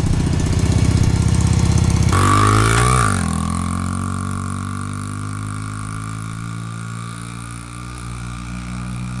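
Honda XR50 pit bike's small four-stroke single-cylinder engine running, its pitch falling about two seconds in as the revs drop, then running steadily at a lower pitch and more quietly. The owner says the engine doesn't sound too good.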